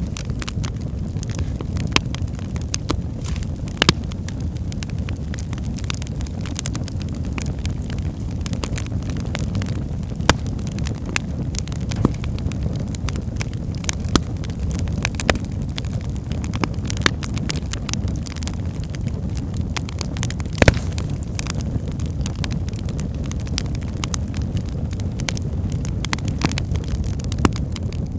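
Wood fire burning in a fireplace: a steady low rumble of flames with frequent irregular crackles and pops of burning logs, a few of them sharper and louder.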